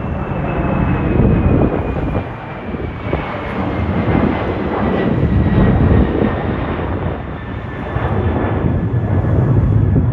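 Airliner passing close by, its engines a loud, steady rumble with a thin high whine that slowly falls in pitch as it goes by.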